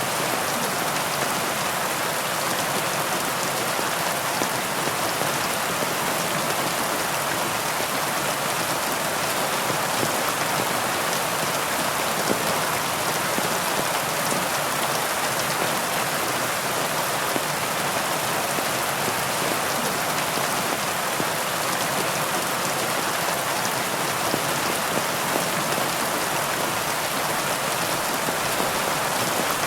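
Steady heavy rain: a dense, even hiss with many individual drops ticking through it, unchanging throughout.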